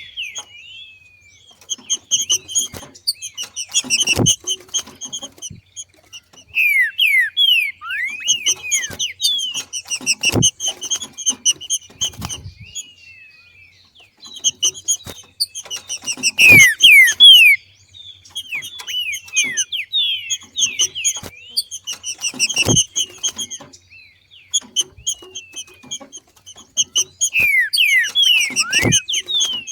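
Green-winged saltator (trinca-ferro) calling in repeated bouts of quick, falling whistled notes, a new bout every few seconds, the loudest about halfway through. Several bouts carry a single sharp knock.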